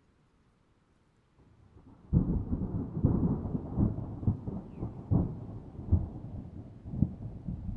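Thunder: after near silence, a faint swell then a sudden loud clap about two seconds in, followed by a continuing rumble broken by repeated sharp cracks.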